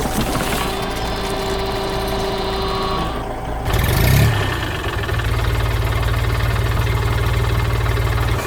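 Farm machinery engine running: a steady mechanical hum with held tones, a short noisy burst about halfway through, then a steady low engine idle with a fast even pulse.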